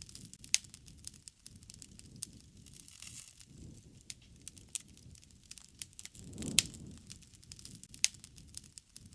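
Wood fire crackling: irregular sharp pops and snaps over a low rush of burning that swells twice, briefly.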